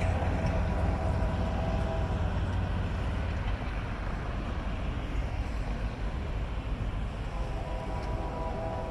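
Union Pacific train approaching a grade crossing: a steady low rumble, with several steady horn-like tones that fade about a second in and sound again near the end.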